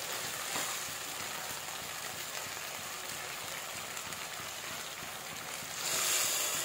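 Sliced cabbage, capsicum and carrot in soy and chili sauces sizzling in a hot pan, a steady hiss. Near the end a spatula stirs through them and the sizzle briefly grows louder.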